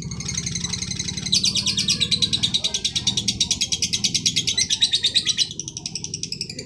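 A bird singing a long, fast, continuous trill of rapid chattering notes that stops shortly before the end, with a steady low hum underneath.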